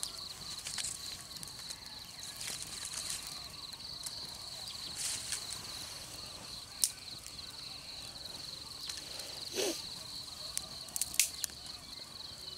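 Insects, crickets or similar, keeping up a steady high-pitched buzz, with scattered short clicks and snaps over it.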